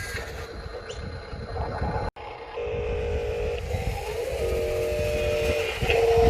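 Electric motors of radio-controlled construction models whining in steady tones that start, stop and shift in pitch as the machines move, over a low rumble. The sound drops out briefly about two seconds in.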